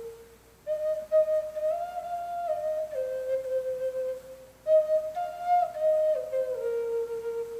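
Native American flute playing a slow melody: two phrases of held notes stepping up and down, with a short breath pause between them.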